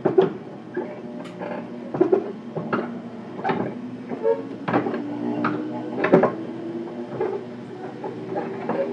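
A JR Kyushu 415-1500 series electric multiple unit running, heard from inside the car: a steady low hum with sharp, uneven knocks about every half second, and a tone that climbs slightly in pitch through the middle.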